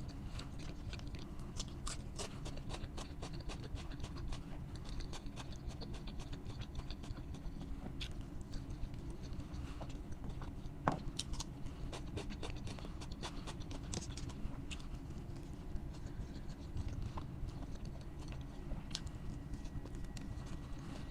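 Close-miked eating sounds: chewing with many crisp crunches of fried food, over a steady low hum. One louder crunch comes about eleven seconds in.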